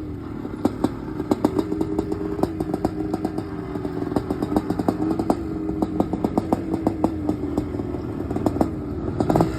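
Vintage motocross motorcycle engine running in the pits, its revs holding fairly steady with small rises and falls, with many sharp irregular clicks over it.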